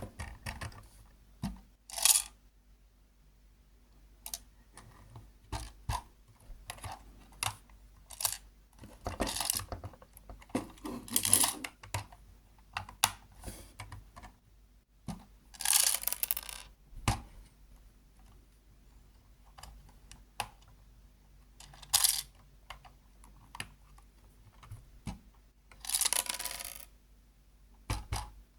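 Lego plastic parts clicking, knocking and rattling as the model is handled, with a few longer rattling scrapes: one in the middle and one near the end.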